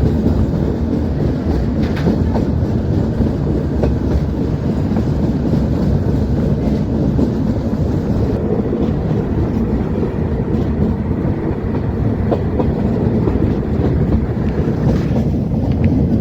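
Metre-gauge passenger train hauled by a YDM-4 diesel locomotive running along the track: a steady low rumble with a few faint clicks.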